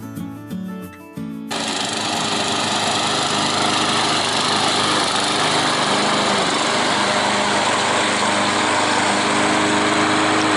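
Small gasoline lawn-care engine running steadily at full throttle after a short burst of acoustic guitar music. Its pitch slides down at the very end as the throttle is let off.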